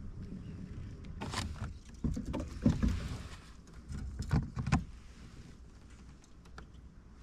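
Knocks and bumps on a fishing kayak, in three short clusters: about a second in, between two and three seconds, and just past four seconds. Quieter after that.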